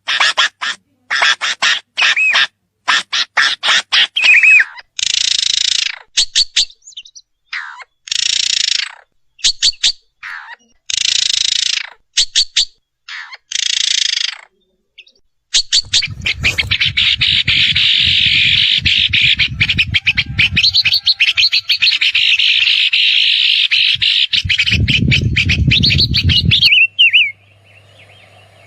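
Songbirds calling: a run of sharp chips and short buzzy calls, then a long, dense chattering from about halfway through that stops abruptly near the end, with a low rumble under parts of it.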